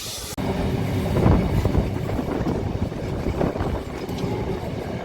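A steam hiss that cuts off suddenly about half a second in, giving way to a steam-hauled train running on the rails: a low rumble with irregular clatter of wheels over the track.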